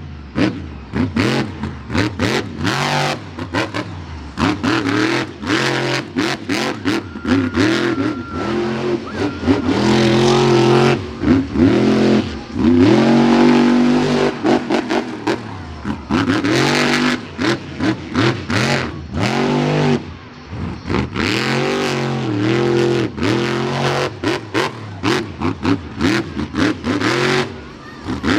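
Monster truck engine revved hard over and over, its pitch climbing and dropping with each throttle stab, with many short sharp cracks between the revs.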